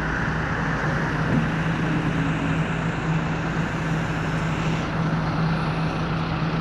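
Excavator engine running steadily at constant speed, a low even engine hum under broad mechanical noise.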